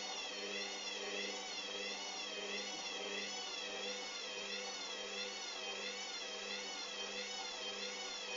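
Hoover Dynamic washing machine running, its motor whining with a pitch that wobbles up and down about once a second over a steady low hum.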